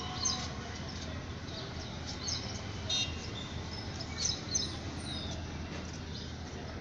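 Birds chirping now and then in short calls over a steady low background hum.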